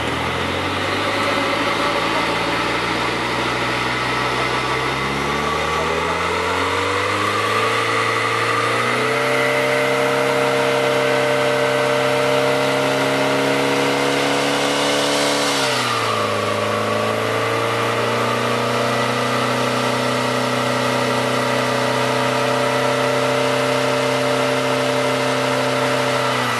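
Nissan PS13 Silvia engine running on a chassis dyno. The revs climb steadily for the first nine seconds or so and then hold. About 16 seconds in, the pitch drops sharply, as at a gear change, then settles and holds again.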